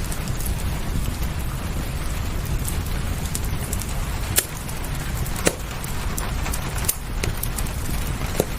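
Wood fire crackling, with a few sharp pops scattered through, over a steady backdrop of rain.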